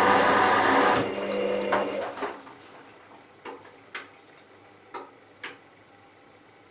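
Hoover Vision Tech washing machine running loudly with a steady motor whine. The whine cuts out about a second in and dies away over the next second. Four sharp clicks follow in the quiet.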